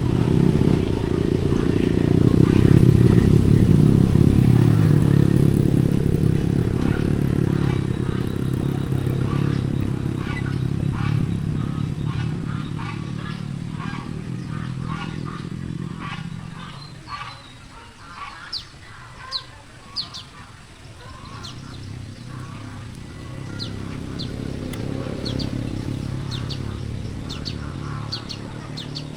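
An engine running steadily, dying away about halfway through and coming back more softly near the end. Short high chirps sound in the quiet gap and again later.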